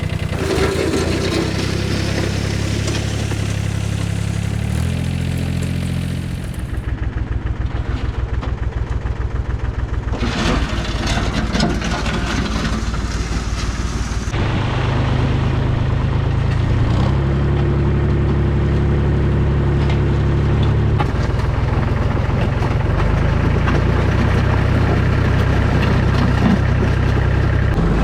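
Mahindra tractor's diesel engine running while grading crushed gravel with a box blade, its engine note changing abruptly several times.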